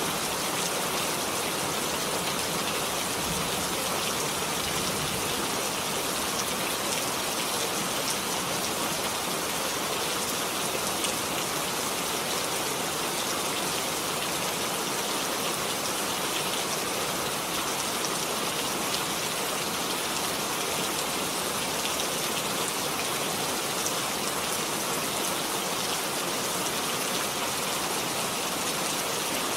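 Steady rain falling, a constant even hiss of many drops hitting a surface, with no breaks or changes in strength.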